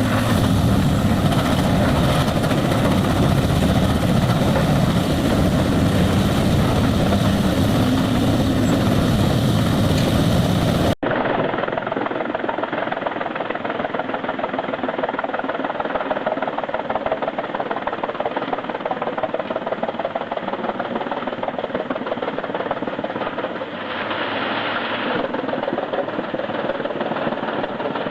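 Bandit Beast 4680 horizontal grinder running under load, a loud, dense mechanical noise from its engine and grinding. About eleven seconds in the sound cuts abruptly to a different recording of a heavy machine engine running steadily.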